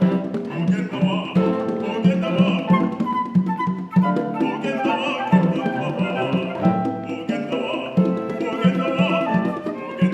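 Chamber ensemble of piano, flute, cello and congas playing, the congas keeping a steady repeating Amaggunju rhythm from Baganda traditional dance under sustained melodic lines.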